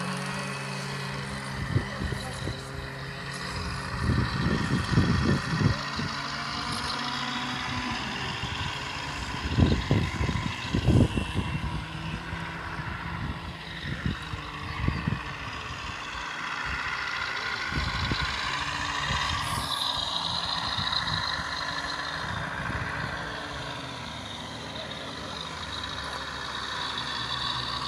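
Radio-controlled model Scania 143H truck driving, its drivetrain whining and rising and falling in pitch as it speeds up and slows down, with several bursts of low knocking and rumbling.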